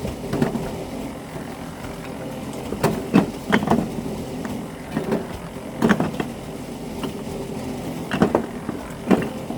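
A steady engine hum with a series of short, sharp knocks and scrapes, some in quick pairs or threes, about every one to three seconds.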